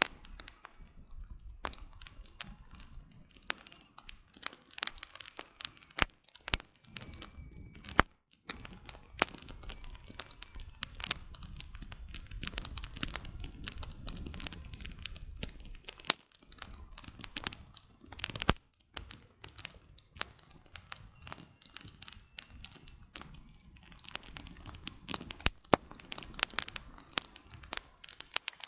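Wood campfire crackling: dense, irregular sharp snaps and pops from the burning firewood over a low rumble of the flames, which swells through the middle.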